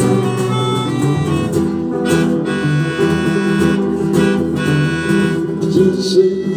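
Rock band playing an instrumental song intro led by guitar over held chords. Repeated strummed strokes come in about two seconds in.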